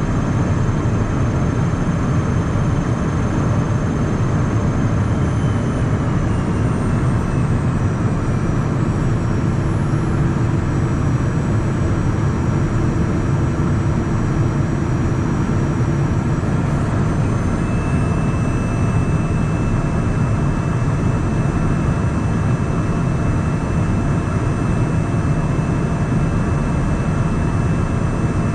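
Steady cabin noise in a Cessna Citation Mustang light jet: the hum of its twin Pratt & Whitney PW615F turbofans and airflow. Faint high whines shift in pitch partway through.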